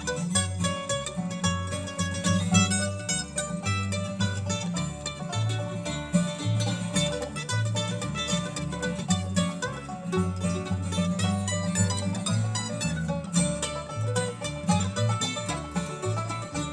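Live bluegrass band playing an instrumental break: plucked strings picking a busy melody over a bass line that steps from note to note.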